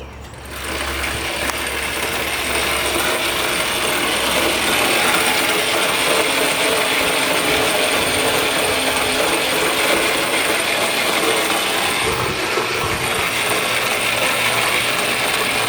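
Loud, steady mechanical rattling that starts abruptly about half a second in and holds steady.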